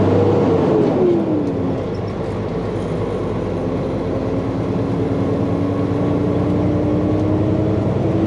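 Semi truck's diesel engine heard from inside the cab. Its pitch drops about a second in, then climbs slowly as the truck accelerates.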